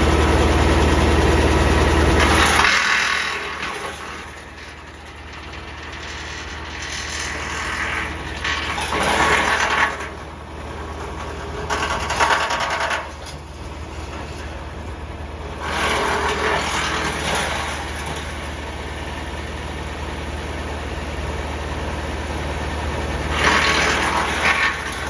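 Tractor-driven branch chipper running, with the tractor engine humming steadily underneath. Several noisy bursts of a second or two each stand out above the hum as branches are fed in and chipped by the four-knife cutter.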